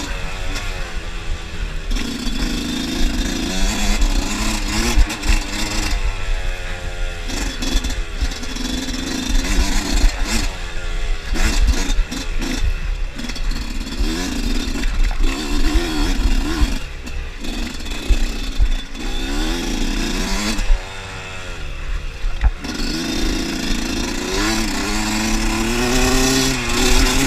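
Dirt bike engine on an enduro trail, revving up and easing off over and over, its pitch rising and falling every second or two over steady rushing noise, with a brief drop-off about three-quarters of the way through.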